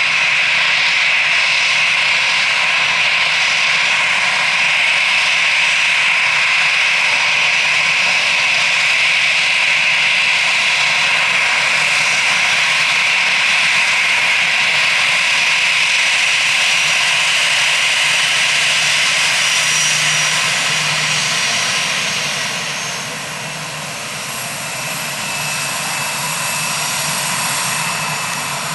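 Airbus A320's twin CFM56 turbofan engines running loud and steady with a strong hiss and whine. The sound drops in level about three-quarters of the way through.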